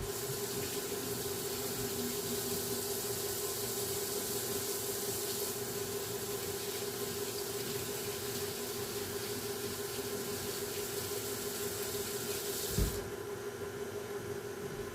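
Water running from a kitchen tap into a sink as a steady hiss for about thirteen seconds, then cut off suddenly with a soft thump. A steady low hum runs underneath.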